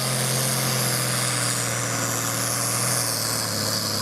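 Diesel tractor engine running hard under load, pulling a weight-transfer sled. Its steady note drops slightly about three seconds in.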